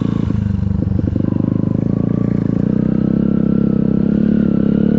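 Yamaha XTZ125 trail motorcycle's single-cylinder four-stroke engine running under throttle, its pitch climbing gradually over the second half as it speeds up.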